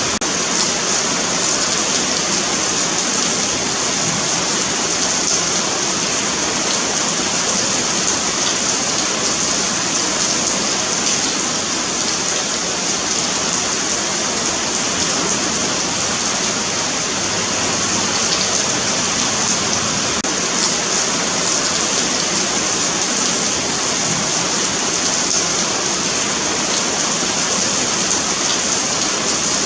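Steady rain falling on a pavement: a continuous even hiss with fine scattered drop ticks.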